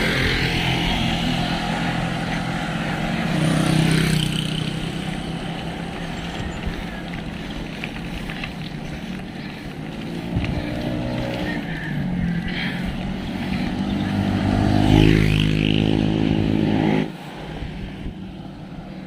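Road traffic: motor vehicles passing with their engines running, loudest near the end, then the sound cuts off suddenly.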